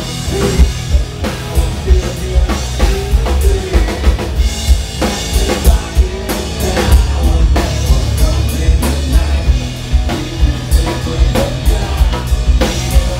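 Rock band playing live and loud: a drum kit pounding bass drum and snare hits over a heavy, bass-laden mix.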